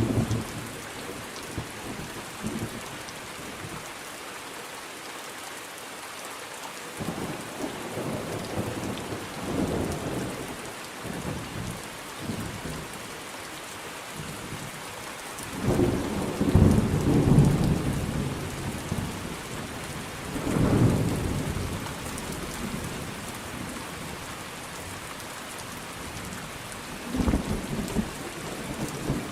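Thunderstorm: steady rain hissing on a surface, with several rolls of thunder rumbling up and fading. The loudest roll comes about halfway through, another follows a few seconds later, and a shorter one comes near the end.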